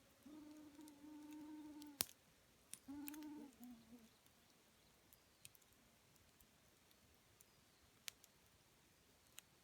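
Campfire burning quietly, its wood giving off sparse sharp pops, the loudest about two seconds in. A flying insect buzzes at a steady pitch in two spells: for the first two seconds, and again briefly around three seconds in.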